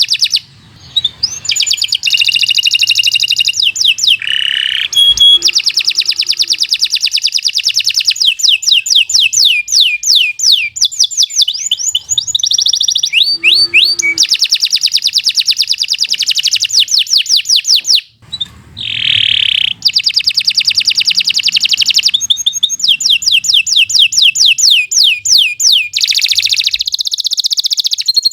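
Canary singing a long song of fast trills and rolls, strings of rapid repeated notes changing from phrase to phrase. It breaks off briefly near the start and again about two-thirds of the way through.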